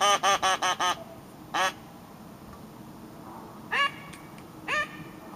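Duck call blown in a series of quacks. A quick run of about six quacks comes in the first second, then a single quack, then two more spaced quacks near the end.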